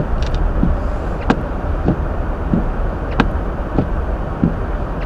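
Hyundai Elantra driving on a snow-covered road, heard inside the car's cabin: a steady road and engine rumble with a soft, regular knock about every 0.6 seconds and a few sharper clicks.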